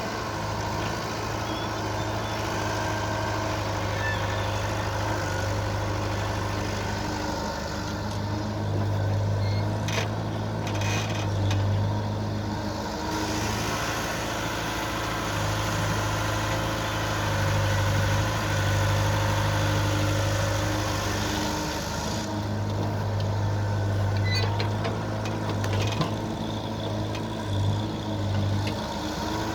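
Diesel engines of JCB 3DX backhoe loaders running, rising and falling in revs as they dig and load sandy soil, with a few short knocks about ten seconds in and again near the end.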